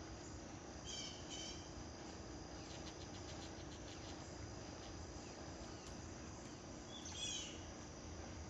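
Faint, steady trilling of insects, with two short bursts of bird chirps: a brief one about a second in and a louder run of falling notes near the end.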